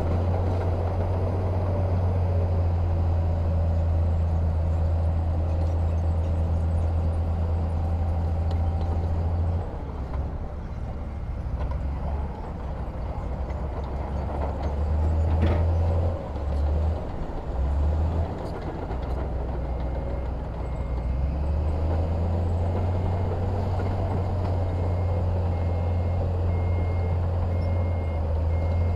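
Heavy diesel engine of earth-moving machinery running with a deep steady drone that drops back about ten seconds in and builds up again a little after twenty seconds. A single sharp knock comes near the middle, and a faint reversing alarm beeps through the last ten seconds.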